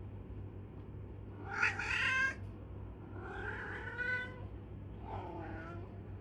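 A cat meowing three times in separate calls, the first the loudest and the last lower in pitch, over a steady low hum.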